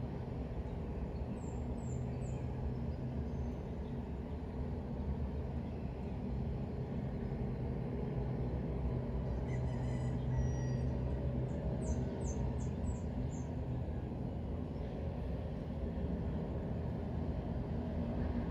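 A steady low rumble with birds chirping over it: a few short high chirps near the start and a quick run of them about twelve seconds in.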